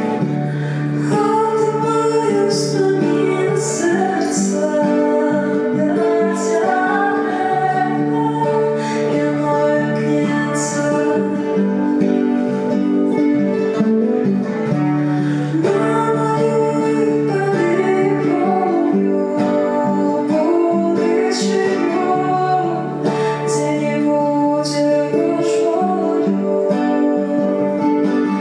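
Acoustic guitar strummed in a steady rhythm while a woman sings.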